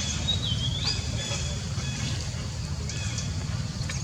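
Steady low rumble with scattered high-pitched chirps and squeaks over it, one of them a wavering call about half a second in.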